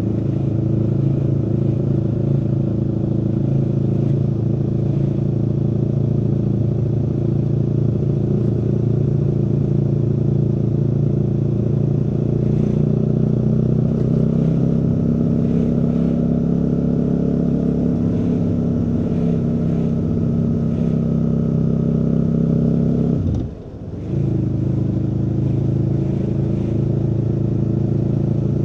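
Aprilia Tuono V4's V4 engine running steadily under way. The sound drops sharply for a moment about 23 seconds in, then picks up again.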